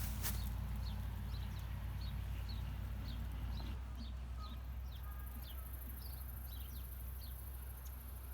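A small bird calling over and over: short, high, downward-sliding chirps, about two a second, that stop about a second before the end, over a steady low rumble.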